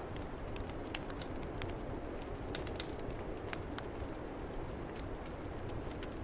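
Wood fire crackling, with irregular sharp pops, over a steady low rush of storm wind.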